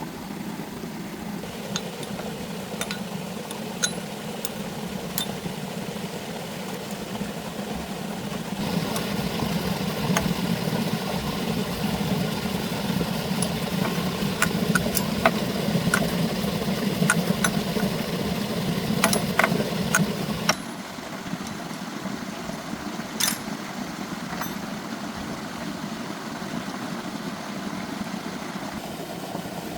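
Tractor engine running steadily, louder and harsher for a stretch in the middle, with scattered light metallic clicks.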